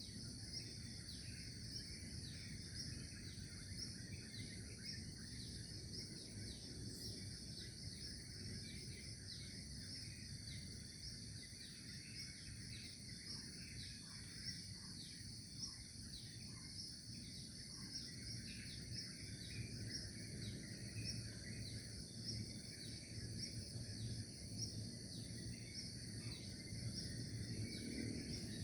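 Outdoor nature ambience: a steady, high, pulsing trill of crickets or similar insects, with scattered short bird chirps and a run of about six lower notes about halfway through. A low rumbling background noise sits under it all.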